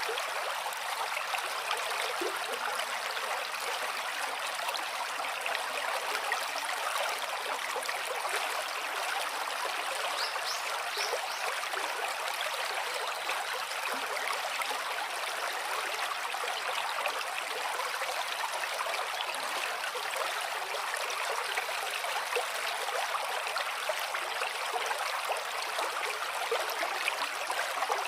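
Stream water flowing and trickling in a steady, even rush, with no change or break.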